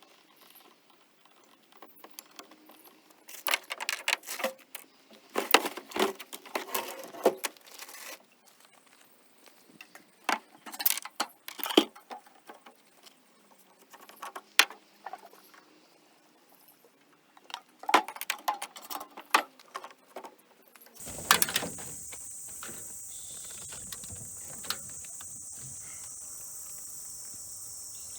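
Irregular bursts of dry crackling and rustling, as of bamboo litter and brush being disturbed. About three quarters of the way in it gives way abruptly to a steady high shrill of summer insects, most likely cicadas.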